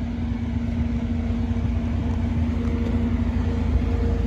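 Crane truck's engine running steadily, a constant low rumble with a steady hum.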